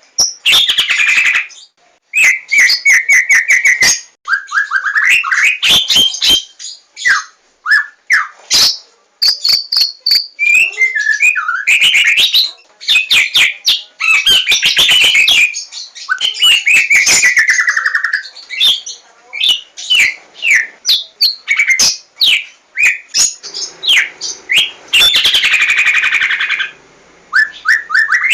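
White-rumped shama singing a fast, varied song of whistled phrases, pitch glides and sharp clicking notes, with only brief pauses.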